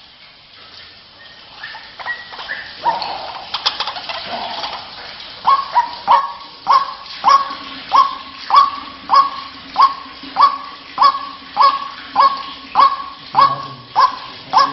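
White-breasted waterhen (ruak-ruak) calling. A few softer, scattered notes come first, then from about five seconds in a loud, regular series of repeated calls, about one and a half a second.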